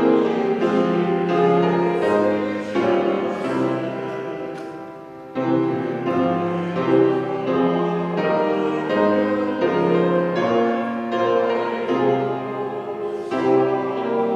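Piano playing slow, held chords. The sound fades, then a new chord is struck about five seconds in.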